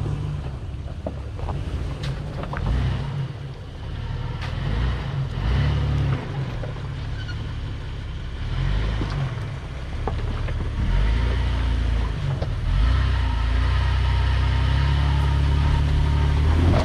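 Off-road 4x4 engine running at low revs, its note shifting up and down and growing louder in the last several seconds, with a few scattered knocks.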